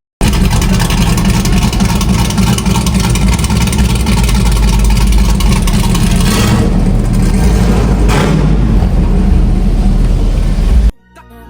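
A car's engine and exhaust running loud and heavy, with two brief surges about six and a half and eight seconds in. It starts and cuts off abruptly.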